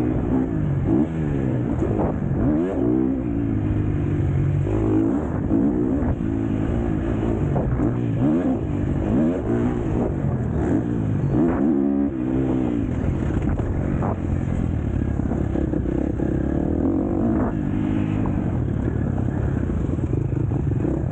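KTM 250 SX-F single-cylinder four-stroke motocross engine revving hard and falling off again and again as the throttle is opened and closed through the gears, with a few knocks from the bike over the track.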